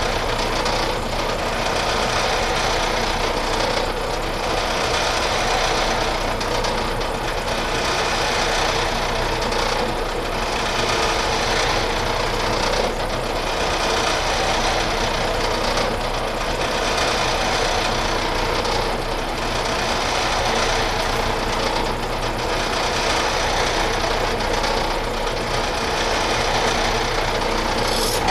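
Metal lathe running steadily with the spindle turning a steel workpiece, its sound dipping slightly about every three seconds.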